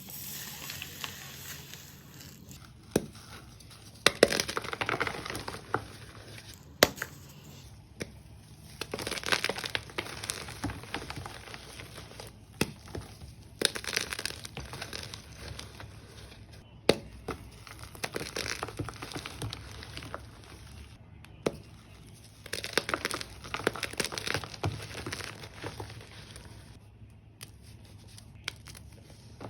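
Blocks of gym chalk mixed with Ariel washing powder being crushed, crumbling and crunching in repeated bursts of crisp crackling a second or two long, with a sharp snap every few seconds.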